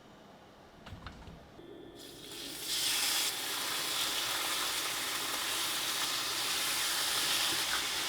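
Pork belly frying in a hot pan: a few soft knocks, then about two seconds in a sizzle starts, swells within a second and holds steady.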